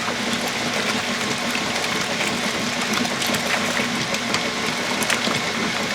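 1993 Kenmore 80 Series top-load washing machine running with water in the tub during a wash cycle: a steady motor hum over the noise of moving water, with faint scattered ticks.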